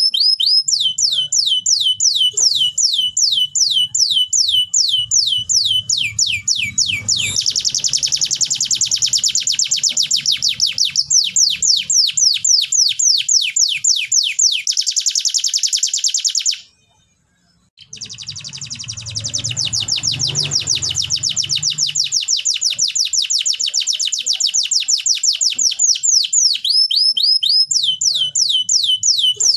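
Domestic canary singing: long runs of quick, repeated falling notes and fast trills, breaking off for about a second past the middle.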